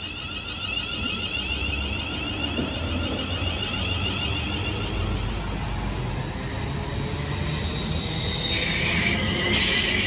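London Northwestern Railway Class 350 electric multiple unit pulling away from the platform. Its traction motors whine in steady sweeping tones over a growing rumble of wheels on rail. A loud high hiss and squeal comes in about eight and a half seconds in.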